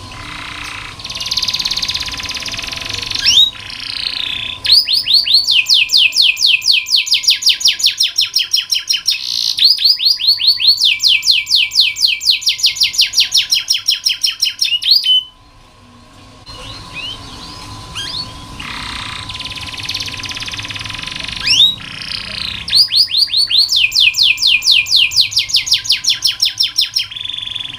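Domestic canary singing: two long song phrases of fast, evenly repeated trilled notes, with a short pause about halfway through.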